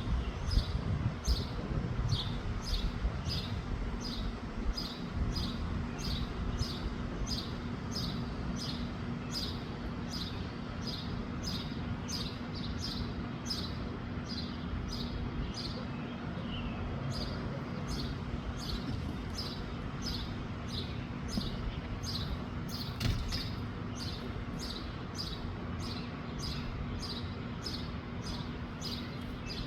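A bird calling over and over, a short high chirp that drops in pitch, about three every two seconds, over low wind rumble.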